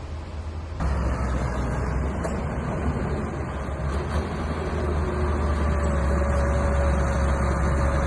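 Small crawler bulldozer's diesel engine running steadily, stepping up in loudness about a second in.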